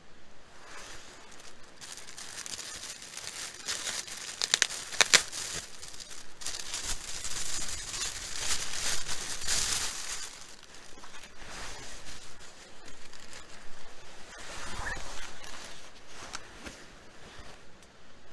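Crinkling and rustling of something being handled, in uneven swells, with a few sharp clicks about four to five seconds in.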